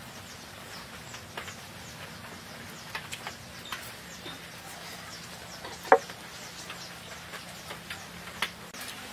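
Close eating sounds of biting and chewing a crispy fried chicken drumstick: scattered crunches and mouth clicks, the loudest about six seconds in. Faint bird chirps come and go behind them.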